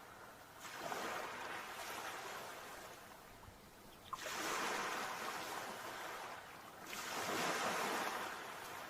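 Sea waves breaking and washing on the shore: three surges of surf about three seconds apart, each swelling and then fading.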